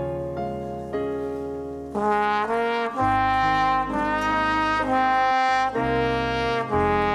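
Brass ensemble playing slow, held chords. It starts softer, then comes in louder from about two seconds in, with the chords changing about once a second.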